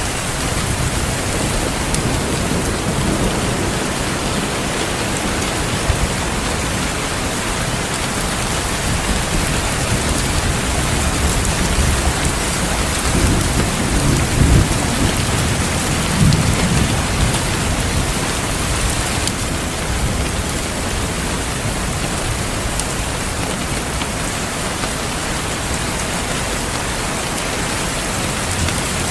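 Steady heavy rain with low rolling thunder, the rumble swelling about halfway through.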